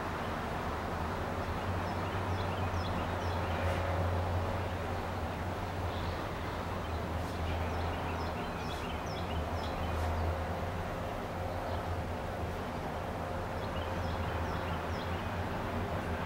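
Outdoor ambience: a steady low rumble with small birds chirping in short repeated calls, in bunches of chirps that come and go.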